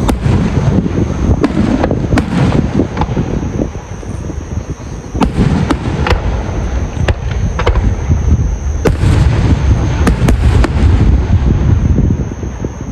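Fireworks going off in quick succession: a string of sharp bangs and crackles over a heavy low rumble. There is a short lull about four seconds in, and the densest run comes about nine to eleven seconds in.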